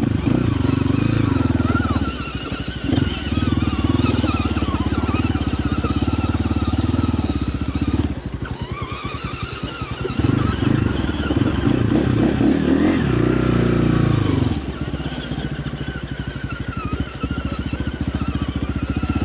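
Small gas dirt bike engine running while being ridden, the throttle opening and easing off several times so the engine note rises and falls.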